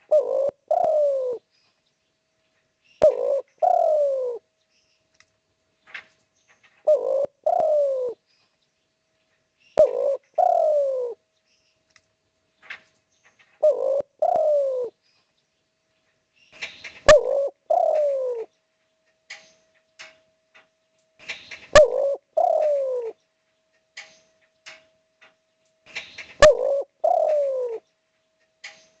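Spotted dove (derkuku) cooing over and over: eight two-part coo phrases, one every three to five seconds, each a short note followed by a longer coo that falls in pitch. A few sharp clicks fall between the phrases.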